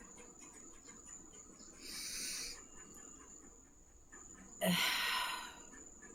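A woman breathing audibly: a short breath in about two seconds in, then a louder sigh out just before five seconds that opens with a brief voiced note.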